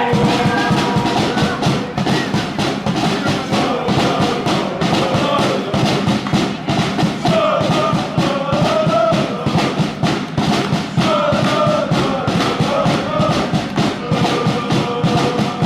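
Football supporters' drum beaten in a steady rhythm while a group of fans chant and sing along in chorus.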